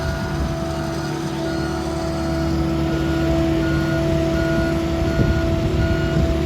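Vehicle engine running steadily with a droning hum, while a short, even beep repeats about three times every two seconds, like a vehicle's reversing alarm.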